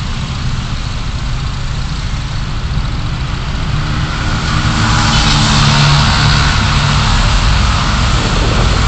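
Car driving in city traffic, as picked up by a dashcam: a steady low engine and road rumble. About four seconds in an engine hum and road hiss grow louder, then the hum fades near the end.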